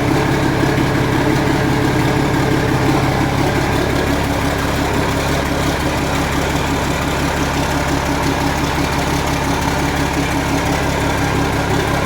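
Vehicle engine idling steadily at an even speed.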